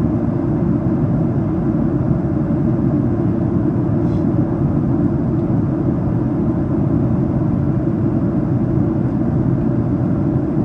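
Steady cabin noise of a Boeing 737-800 in flight, heard from a seat in the main cabin: an even low rumble of airflow and engines that holds at one level throughout.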